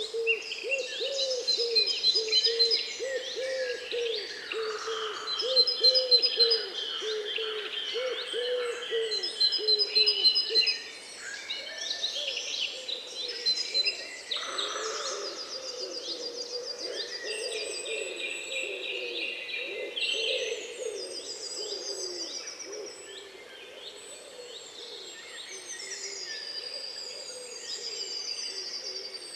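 Many birds calling at once: a low hooting call repeats quickly through the first ten seconds or so and then grows fainter, under a mix of high trills, whistles and chirps.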